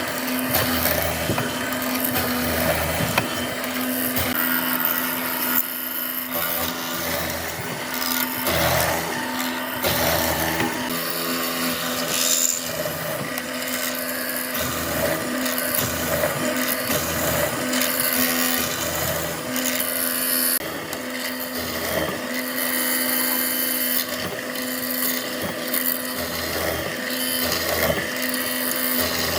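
An electric power tool running continuously while working oak: a steady motor hum under a loud rasping noise that swells and dips as the tool bites into the wood.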